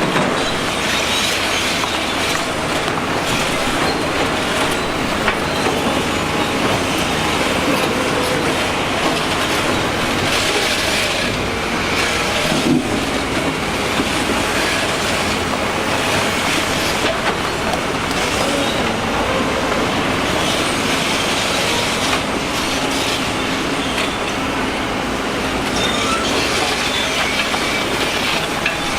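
Heavy construction machinery running continuously, with steady metallic squealing and clanking of the kind tracked machines make.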